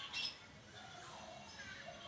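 Oriental magpie-robin giving a short high chirp at the start and a fainter call later, over soft low cooing of a dove.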